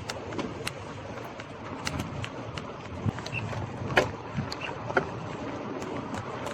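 Scott Scale Gravel 10 gravel bike rolling along a city street: steady tyre and road noise with irregular clicks and knocks from the bike. The sharpest knocks come about four and five seconds in.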